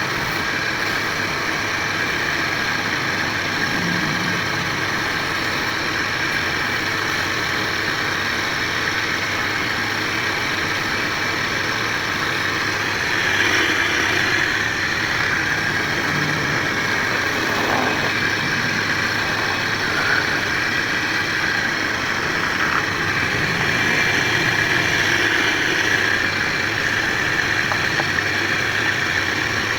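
A machine running steadily with a constant mechanical drone, a little louder from about halfway through.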